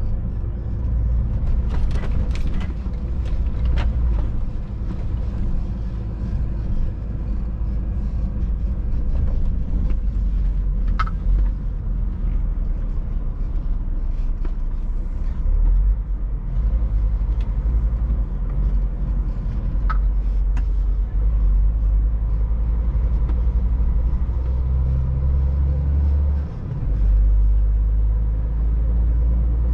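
Scania truck's diesel engine and road noise heard from inside the cab while driving, a steady low rumble with a few sharp clicks. The engine note drops briefly and shifts about 26 seconds in.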